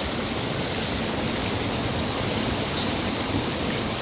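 Steady rush of a mountain river flowing over rocks.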